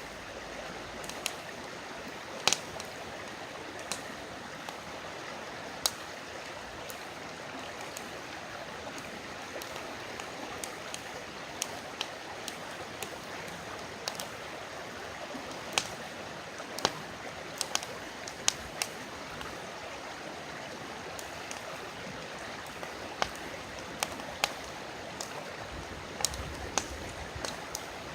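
Campfire crackling, with irregular sharp pops, over the steady rush of a flowing river.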